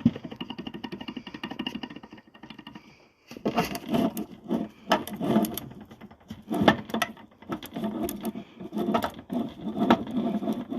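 A power tool rattling steadily, then running in repeated short bursts from about three seconds in.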